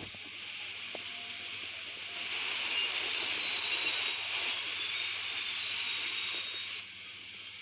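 A steady hiss that grows louder about two seconds in and drops back near the end.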